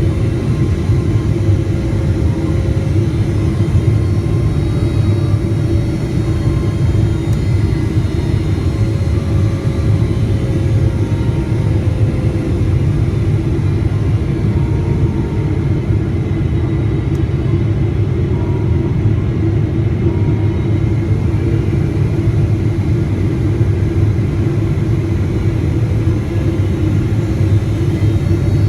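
Steady loud rumble of a Boeing 777-300ER airliner in flight on approach, from its GE90 engines and airflow. Faint engine tones drift slowly in pitch.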